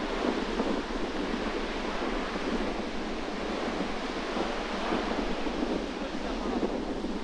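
Strong sea wind buffeting the microphone over the steady rush of surf on a rocky coast.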